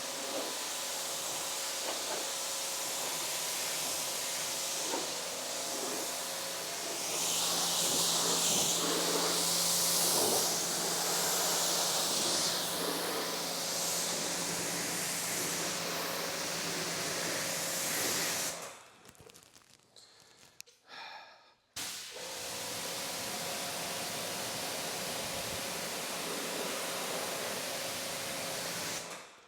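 Electric pressure washer spraying water over a car in a steady hiss, with the machine's hum underneath. The spray stops for about three seconds a little past halfway, then resumes.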